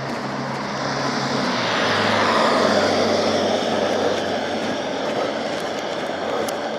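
A motor vehicle passing by: its engine note drops in pitch about a second and a half in, and the noise grows to a peak between two and three seconds in, then fades.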